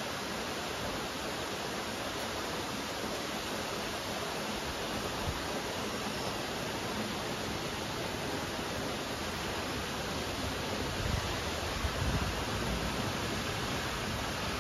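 Steady rain falling, an even hiss with no break, and a few low rumbles near the end.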